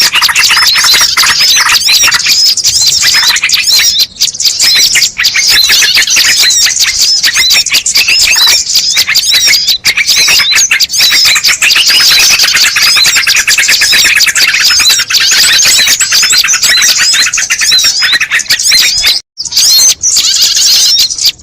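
Bird-lure recording: dense, rapid high-pitched chirping and twittering with no pause, broken by a brief cut about nineteen seconds in.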